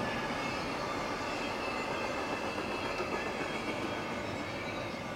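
CSX double-stack intermodal freight train passing at a grade crossing: the steady sound of its container-laden well cars rolling by on the rails.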